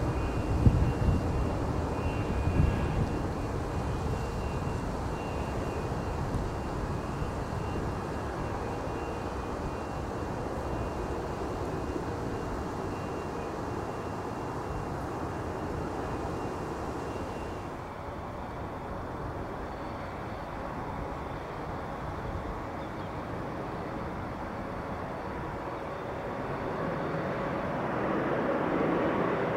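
Distant turbofan jet noise from an Embraer Legacy 650 business jet with its Rolls-Royce AE 3007 engines, a steady rush with a thin whine, slowly fading. About two thirds of the way in it cuts to a quieter steady jet sound from a Sukhoi Superjet 100 with its SaM146 engines, which grows louder near the end.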